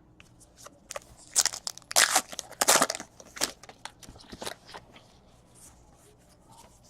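Wrapper of a trading-card pack crinkling and tearing as it is ripped open, in a run of loud rustles from about one and a half to three and a half seconds in, with a few lighter rustles after.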